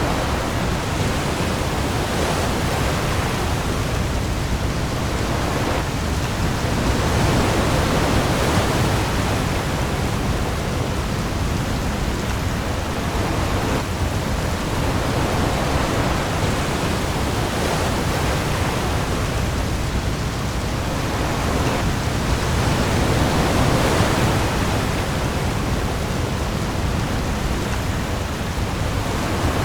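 Storm-at-sea ambience: a dense, steady hiss of heavy rain on the ocean over a deep sub-bass rumble, with waves swelling and easing every few seconds.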